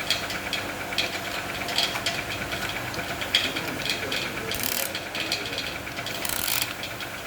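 Metal clicking and ratcheting of hand tools at work on a tractor engine, with sharp clicks about once a second and two short hisses in the second half.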